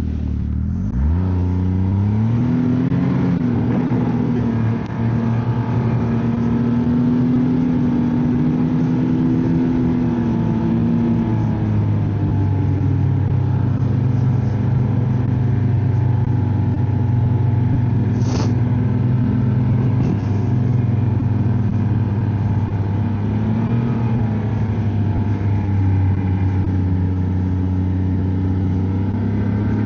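Ski-Doo snowmobile engine speeding up in the first couple of seconds, then running at a steady trail-cruising speed, its pitch rising and falling gently with the throttle.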